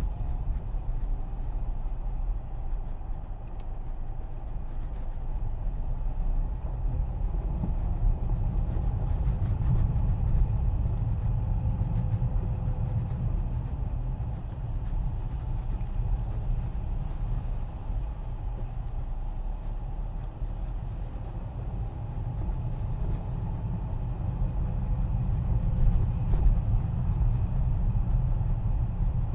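A car driving, its road and engine noise a steady low rumble.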